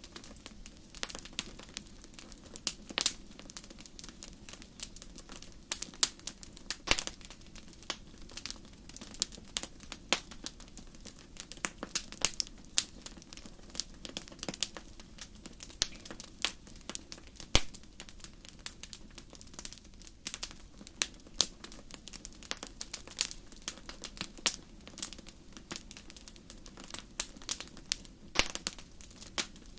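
Wood fire crackling in a fireplace: irregular sharp pops and snaps, several a second, over a soft low hiss of the flames.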